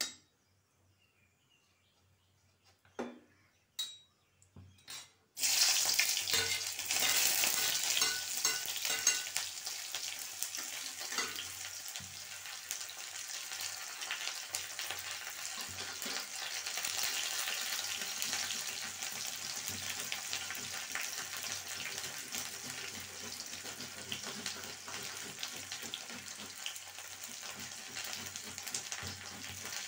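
A few light clinks of a metal spoon in a steel kadhai, then about five seconds in chopped onion goes into hot oil with the tempering seeds and starts frying with a sudden loud sizzle. The sizzle eases a little after a few seconds and keeps on steadily.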